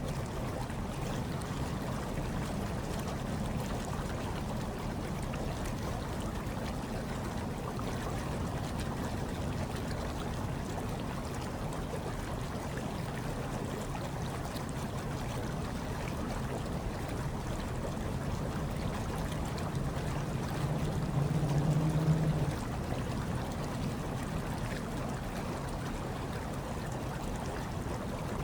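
Hot tub water running and bubbling steadily over a low hum, with a brief louder swell about 21 seconds in.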